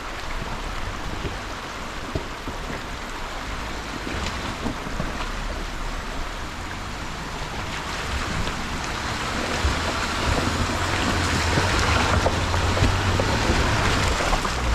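Jeep Gladiator Rubicon crawling slowly along a rough trail: a low engine and drivetrain rumble that grows louder in the second half, over steady crunching noise from the tyres, with scattered short clicks and snaps.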